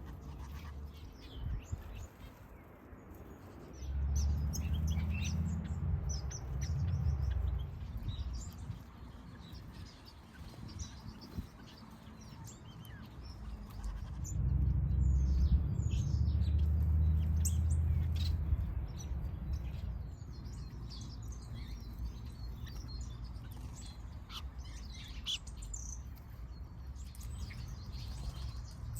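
A flock of small aviary birds, finches among them, chirping and twittering with many short high calls throughout. A loud low rumble comes in twice, from about four to eight seconds in and again from about fourteen to nineteen seconds in.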